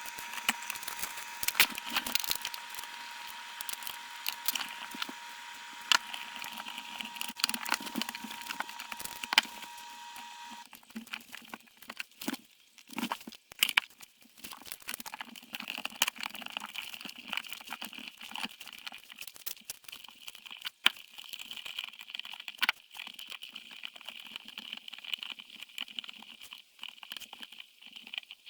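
Hands working on dishwasher parts: scattered clicks, knocks and crinkling as pieces are handled. A steady high hum stops abruptly about ten seconds in.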